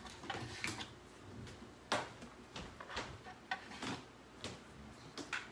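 Scattered small clicks and knocks of craft supplies being handled on a tabletop, the loudest about two seconds in.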